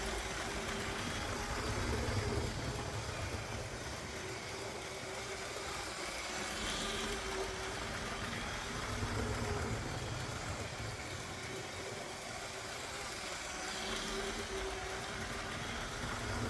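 LEGO 9V electric train running slowly on its track, a steady motor hum and wheel rumble that swell and fade about every seven seconds.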